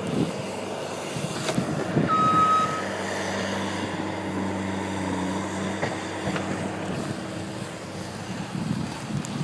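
A vehicle engine running with a steady hum, and one short high beep about two seconds in.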